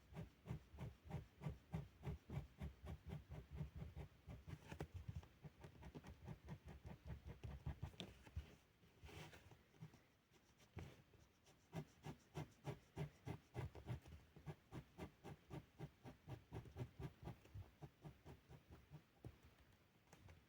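Felt-tip pen rubbing on paper in quick back-and-forth colouring strokes, about three to four a second, with a brief pause about halfway through.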